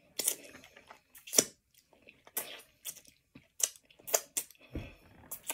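Close-up eating: a person chewing, with a string of sharp, irregular mouth clicks and crunches.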